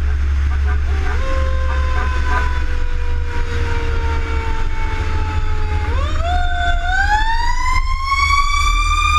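Fire rescue engine's siren over a heavy engine and road rumble. The siren's pitch sinks slowly for several seconds, then climbs quickly about six seconds in and levels off high near the end.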